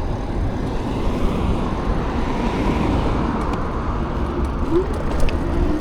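Steady wind rush and road noise from riding an e-bike in traffic, with a few faint ticks near the end.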